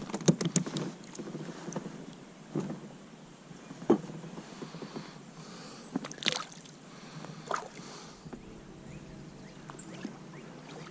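Kayak being paddled: scattered knocks and splashes of the paddle against the hull and water, one every second or two, the sharpest about six seconds in.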